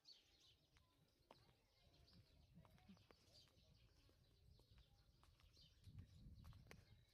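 Faint small birds chirping and twittering in short calls, over a very quiet background, with a soft low rumble about six seconds in.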